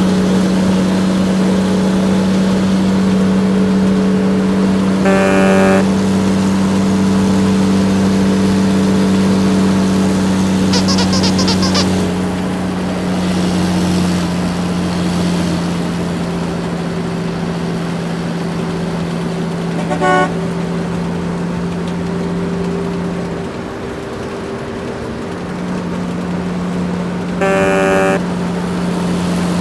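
Truck engine sound effect running steadily, with short horn honks about five seconds in, about twenty seconds in and near the end.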